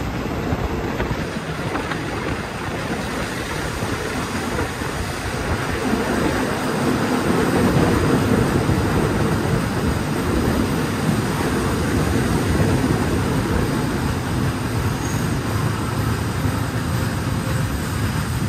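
Passenger train running along the track, heard from inside a carriage: a steady rumble of wheels on the rails with rushing air, growing louder about six seconds in.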